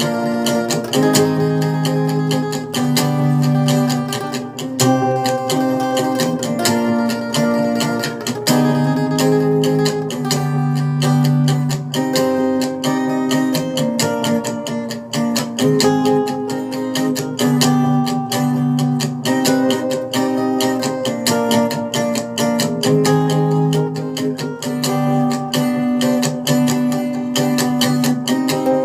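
Acoustic guitar backing track (instrumental, no vocal) playing a song, with chords strummed and picked over a steady rhythm.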